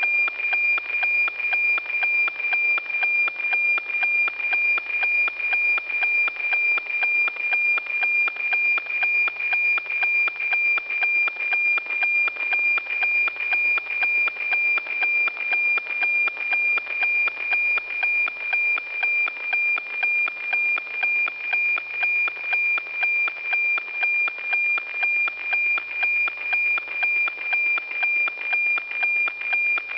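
NOAA-15 weather satellite APT signal as heard from the receiver: a steady high tone with a regular tick-tock pulsing about twice a second, over radio hiss. Each pulse is one scan line of the cloud image being received.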